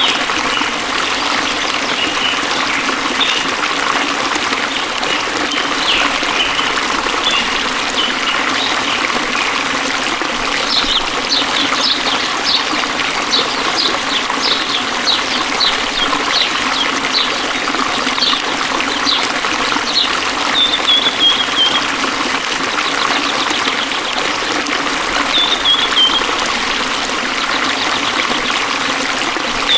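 Water flowing steadily, a continuous rushing trickle. A small bird chirps over it: a run of quick high chirps, about two a second, starting about a third of the way in, then a few short falling trills near the end.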